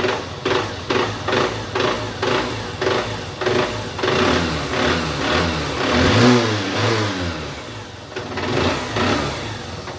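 Honda CB Shine 125's single-cylinder four-stroke engine running with a loud, regular knock about twice a second, revved up past the middle and falling back. The noise sounds like a part striking the piston; the mechanic puts it down to either the piston or the crankshaft.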